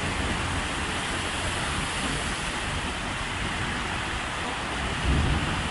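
Heavy rain and floodwater rushing through a flooded street, a steady hiss. A brief low thud about five seconds in.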